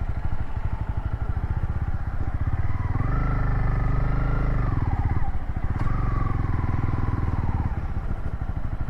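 Honda CB300 motorcycle engine pulling under load through soft sand and mud, its revs climbing about three seconds in, dropping briefly around five seconds, then rising again before easing off near the end.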